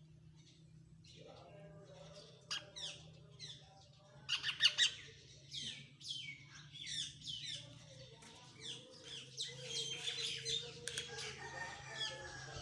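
Pet parrot chirping and squawking in many short, sharp calls, each sweeping downward, with the loudest a quick run of four calls about four and a half seconds in, then a steady string of chirps.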